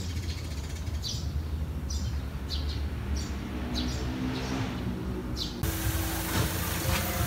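A bird chirping in short, high, falling notes, about six times, over a steady low rumble. About five and a half seconds in, the sound cuts abruptly to a louder, even hiss.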